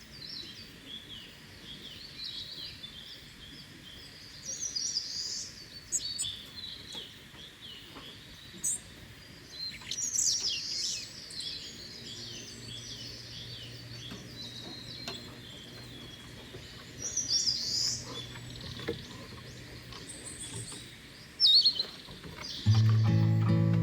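Several wild birds chirping and calling over a faint forest background hiss, with a low steady hum through the middle. Acoustic guitar music starts near the end.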